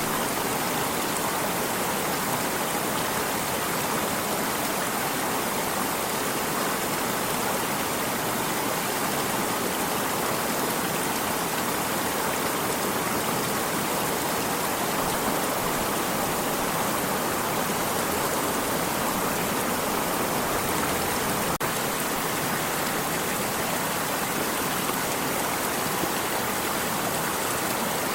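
Stream water running steadily, an even, unbroken rushing.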